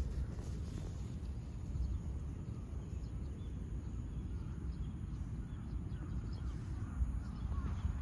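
Small birds calling in short chirps, most of them in the last second or two, over a steady low rumble.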